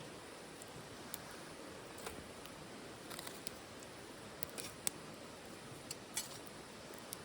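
Wood fire crackling in a titanium wood stove: scattered sharp pops and snaps over a steady soft hiss, with a small cluster of pops a little past the middle.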